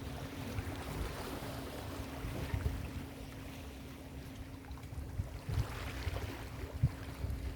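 Ocean surf washing on a beach, with wind buffeting the microphone in low rumbling gusts and a faint steady hum underneath. The wash eases a little after about three seconds.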